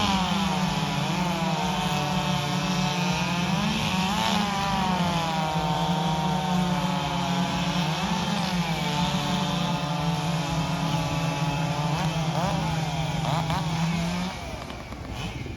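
Chainsaw running at full throttle while cutting through a log, its pitch dipping and rising under load; it drops away about fourteen seconds in.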